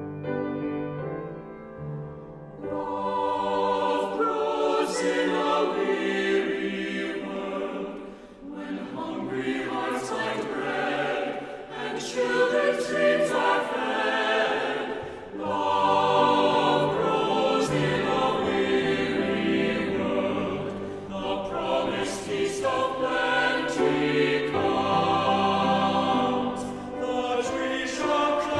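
A choir singing a hymn with keyboard accompaniment, after a short instrumental lead-in about two seconds in.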